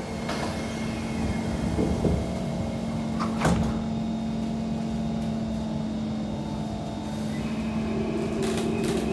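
Inside a Kawasaki C151 MRT train: the sliding doors knock shut over a steady hum, with the loudest knock about three and a half seconds in. Near the end, the PMSM traction motors start to whine in stepped tones as the train begins to move off.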